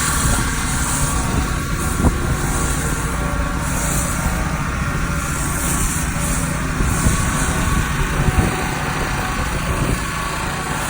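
Pressure washer running steadily, with the hiss of the foam cannon's spray swelling and fading as it is worked over the car.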